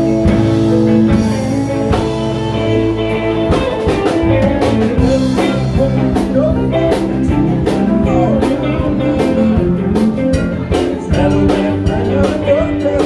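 A live band playing a tune, with guitar and drums keeping a steady beat.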